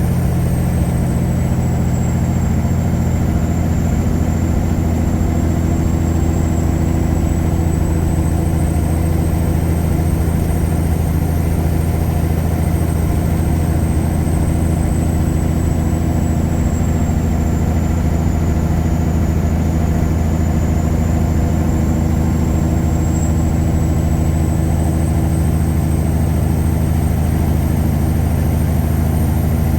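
Tuned Caterpillar 3406E inline-six diesel of a 1999 Freightliner Classic truck running at a steady engine speed: a deep, even drone with a faint high whistle that drifts slowly up and down in pitch.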